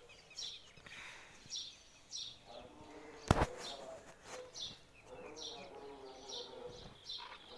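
A small bird chirping over and over, short high chirps repeated roughly once or twice a second. A single sharp knock about three seconds in.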